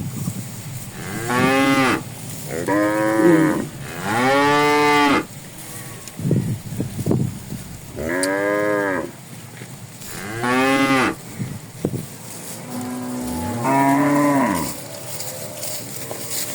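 Cattle mooing repeatedly: about seven separate long calls, each around a second, rising and falling in pitch. A few short knocks come between the calls midway through.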